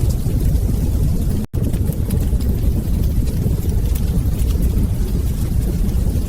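Wood fire burning in a fireplace: a steady low rumble of flames with light, scattered crackles. The sound cuts out for a split second about one and a half seconds in.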